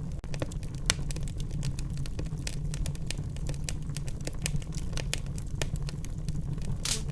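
Wood fire in a fireplace crackling: many sharp, irregular pops and snaps over a steady low rumble of the flames, with a louder pop near the end.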